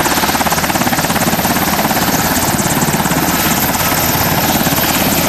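Army UH-60 Black Hawk helicopter running with its rotor turning, a loud, steady sound with a fast, even pulsing of the rotor blades.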